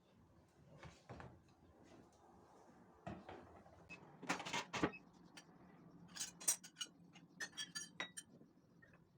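Kitchen handling sounds: scattered knocks and clicks, a short rustling burst about four seconds in, then a quick run of sharp clicks and clatters, like cupboard doors and dishes being moved.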